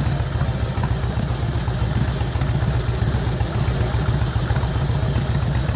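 2000 Harley-Davidson Road King's Twin Cam 88 V-twin engine idling steadily, a loud, even, pulsing rumble.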